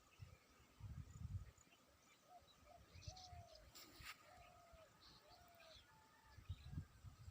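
Faint bird calls: scattered high chirps and a run of five short arched calls in the middle. There are low rumbles about a second in and near the end, and a single sharp click just after the middle.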